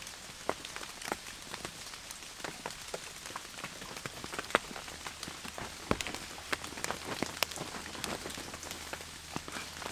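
Heavy rain falling on a tent: a steady hiss of rain with many separate drops striking sharply at irregular moments.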